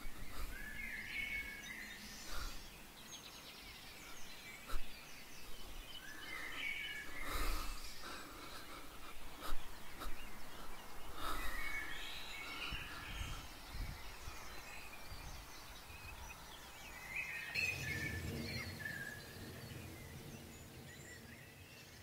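Birds chirping on and off over a faint woodland background. A low rumble comes in for a few seconds near the end.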